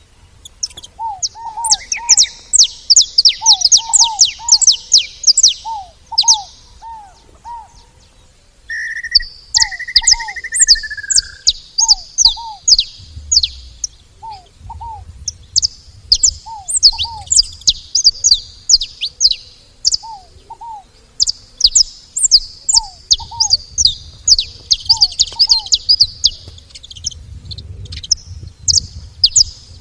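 Saffron finches calling: dense, rapid, high chips and twittering. A lower two-note call recurs every second or two, and a held whistle sounds briefly about nine seconds in.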